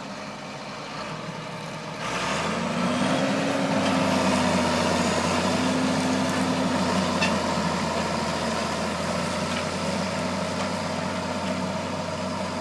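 John Deere 4955 tractor's six-cylinder diesel engine running; about two seconds in it revs up and grows louder, then holds a steady, heavier note.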